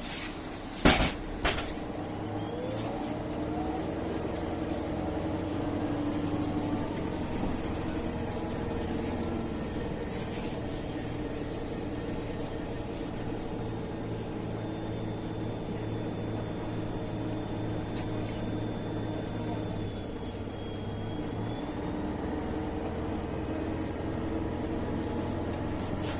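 Ride inside a MAN A21 city bus: two loud clunks about a second in, then the engine and drivetrain running steadily under way, with faint whines rising in pitch as it gathers speed.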